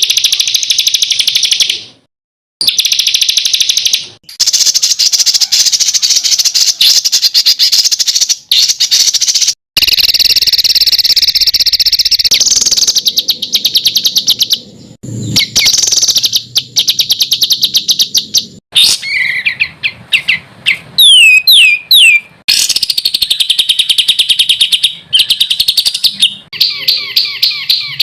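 Masteran recording of small songbirds singing fast, harsh 'tembakan' trills, loud and dense, spliced together with abrupt short breaks. About two-thirds of the way in, a run of quick falling whistles.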